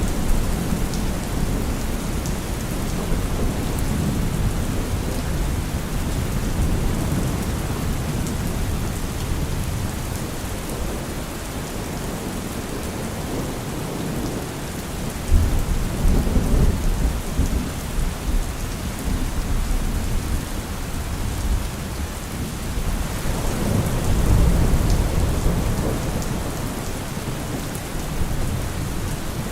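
Heavy rain falling steadily, a dense even hiss. Deep low swells rise briefly about halfway through and again a few seconds before the end.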